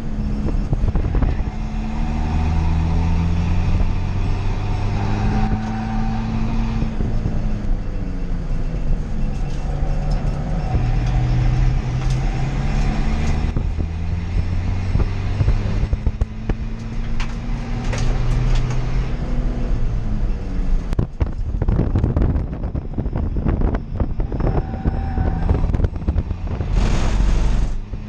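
Toyota Yaris D-4D race car's turbodiesel four-cylinder engine heard from inside the stripped cabin, pulling hard with the revs climbing and dropping again and again through the gears, over steady road and tyre noise. About three quarters of the way through comes a run of sharp knocks and clatters, followed by a short hiss.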